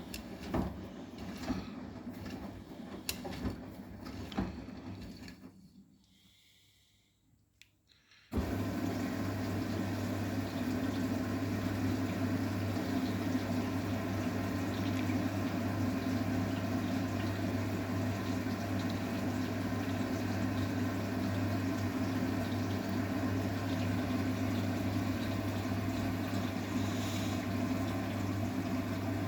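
Arçelik 9120M washing machine starting to take in water: after a few light clicks and a short quiet spell, the inlet valve opens about eight seconds in and a steady rush of water with a low hum starts suddenly and runs on.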